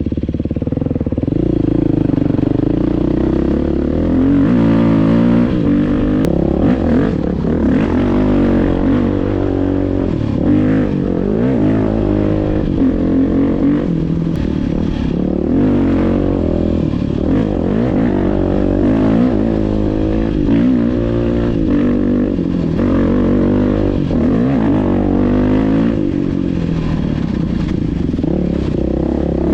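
Dirt bike engine running under load while being ridden, its pitch rising and falling again and again as the throttle opens and closes.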